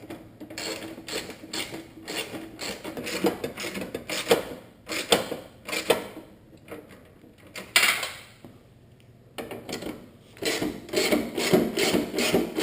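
Irregular clicks, knocks and scraping from hand work fitting a headlight assembly into a car, with a longer scrape about two-thirds of the way in.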